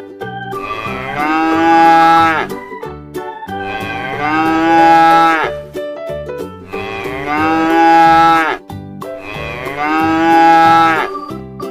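Domestic cow mooing: four long calls about three seconds apart, over a light background tune.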